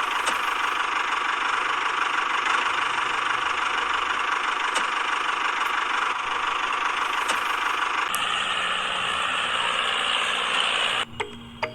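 Small electric motor of a DIY model running steadily, its sound shifting about eight seconds in and cutting off suddenly about three seconds later.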